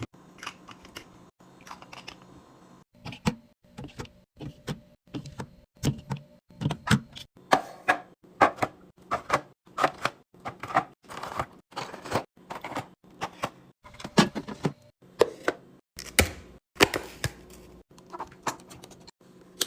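Quick, irregular taps and clacks of packaged food and plastic containers being handled and set down while a fridge is stocked, about two or three knocks a second.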